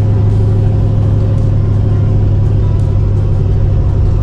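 Vehicle engine running steadily at constant speed, a loud, even low drone.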